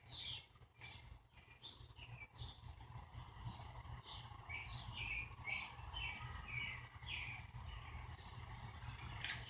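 A small bird chirping over and over, short downward-sliding chirps about twice a second, faint. Under the chirps runs a steady low hum from the ceiling fan running on medium speed.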